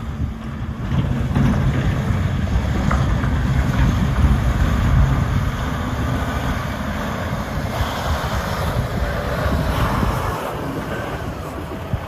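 Volvo A40G articulated dump truck's diesel engine running with a low, steady rumble, with wind noise on the microphone; the low rumble drops away about ten seconds in.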